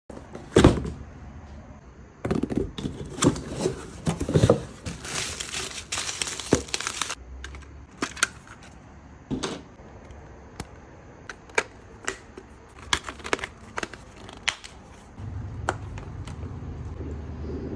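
Crinkling and rustling handling noise with a scatter of sharp clicks and taps, densest from about five to seven seconds in; a low steady hum comes in near the end.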